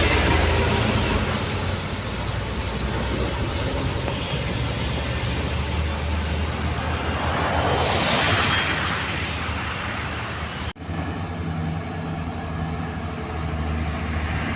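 Heavy truck diesel engine running steadily, with a hiss that swells and fades about eight seconds in. The sound drops out abruptly near eleven seconds and resumes with a similar engine drone.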